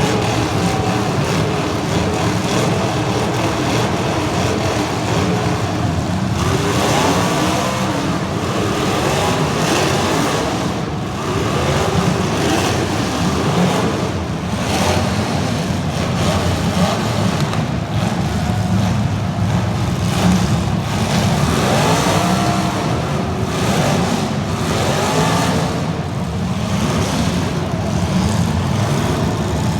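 Demolition derby cars' engines running hard together, revving up and down again and again, with scattered knocks and bangs among them.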